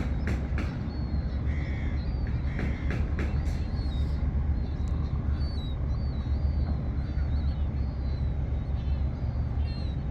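Birds calling over a steady low rumble. Several short, harsh calls come near the start and again around three seconds in, and high, wavering chirps come and go throughout.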